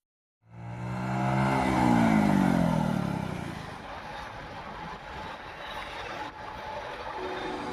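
Vehicle engine accelerating, its pitch rising and loudest about two seconds in, then easing into a steady road hum.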